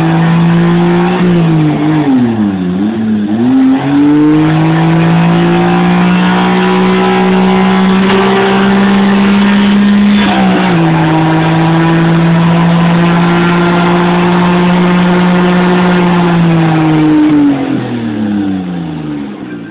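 Small Japanese pickup truck's engine held at high revs in a power-brake burnout in 4th gear, the rear tyres spinning. The revs dip and climb back about two to three seconds in, hold steady, and fall away near the end.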